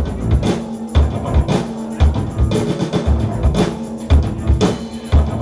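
Live band playing an instrumental stretch between vocal lines: a drum kit keeps a steady kick-drum beat about twice a second under basses and guitars holding a droning note.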